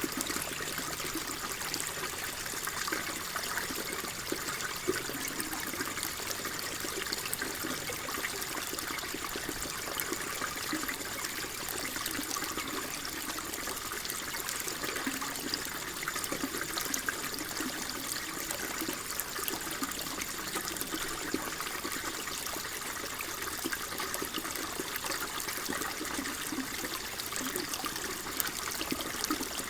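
Flowing water, a steady trickling and babbling stream sound with constant level.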